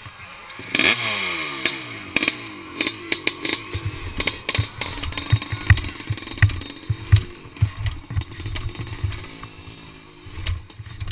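A racing motorcycle engine comes in loud and close about a second in, its pitch falling steeply as it passes. Irregular low thumps and knocks follow, with a fainter engine wavering in the background.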